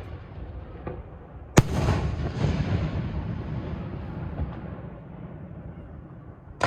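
Fireworks display shells bursting: one loud bang about a second and a half in, then a long rolling rumble with smaller pops that slowly fades, and another bang at the very end.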